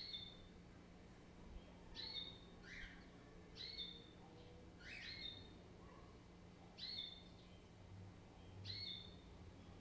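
Faint background birdsong: a short, high chirp repeated six times at intervals of about one and a half to two seconds, with a couple of quick sweeping calls in between. A steady low hum runs underneath.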